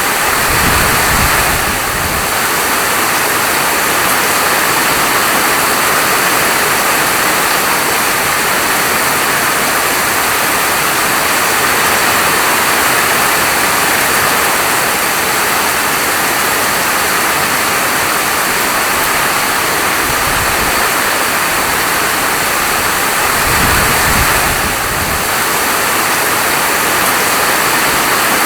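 Steady heavy rainfall, a dense even hiss of falling rain, with a brief low rumble right at the start and another about 24 seconds in.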